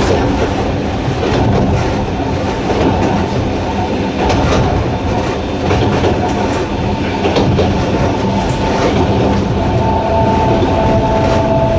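Narrow-gauge electric train running, with its nose-suspended traction motors humming and the wheels clicking over rail joints. Near the end, two steady high tones join the rumble.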